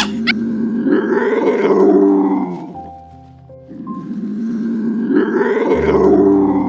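A big cat roaring twice, each roar a long low call of about three seconds, with a short pause between them.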